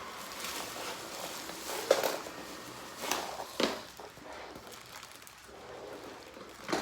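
Lefant M500 robot vacuum running with a steady whir, with a few short knocks and taps over it.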